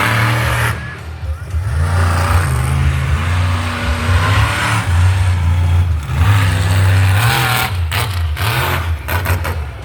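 A loud engine revving repeatedly, its pitch surging up and dropping back every second or two, with a hissing noise over it.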